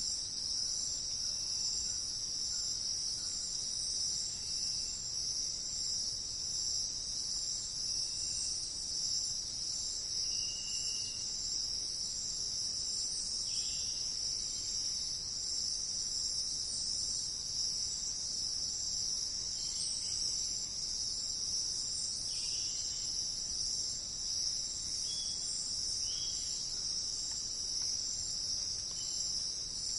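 Steady, unbroken high-pitched insect chorus, crickets or similar. Faint, brief bird notes come and go through it now and then.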